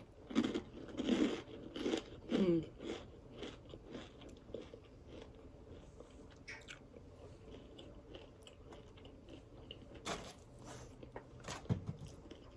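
Biting and chewing crispy deep-fried food close to the microphone. The crunching is loudest for the first couple of seconds, softens to quieter chewing, and picks up again with a few more crunches near the end.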